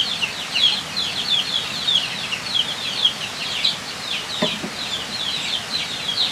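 Chicks peeping nonstop: a dense run of short, high, downward chirps, several a second. A brief lower sound about four and a half seconds in.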